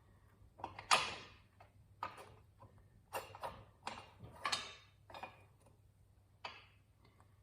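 Irregular clanks and scrapes of hand tools and metal parts being handled, about ten short sounds with the loudest about a second in, during work on a motorcycle's rear wheel assembly.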